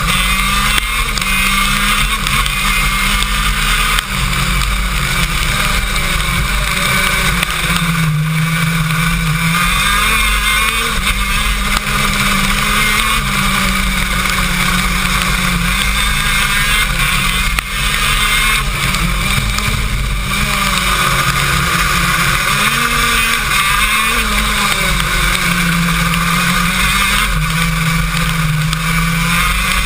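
KZ2 shifter kart's 125 cc two-stroke engine, heard onboard, revving up and falling back again and again through gear changes and corners, with a steady high hiss over it.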